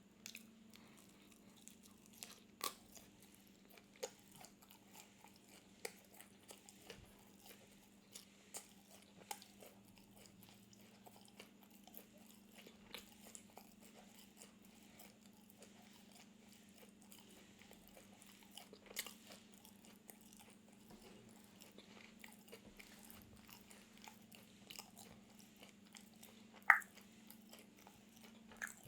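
Close-miked crunchy biting and chewing of crisp food, with many small scattered crackles and one loud crisp snap near the end. A faint steady low hum runs underneath.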